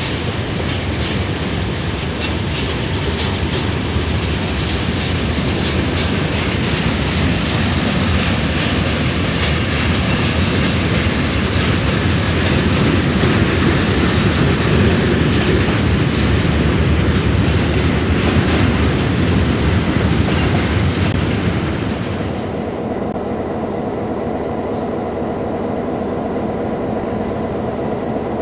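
Freight train wagons rolling past close by, with steady wheel-and-rail noise and a clatter over the rail joints. About 22 seconds in the sound cuts to a diesel locomotive's engine running with a steady low hum as it brings a passenger train in.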